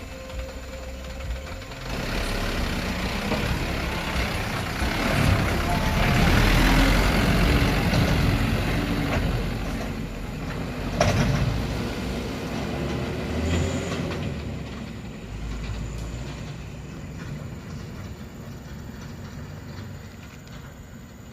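Dump truck running, its engine and noise building about two seconds in, then slowly dying away, with a sharp click about eleven seconds in.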